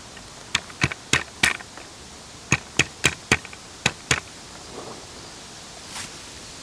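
A quick, irregular series of sharp clicks and knocks, hard objects striking each other, about ten in three and a half seconds, then they stop.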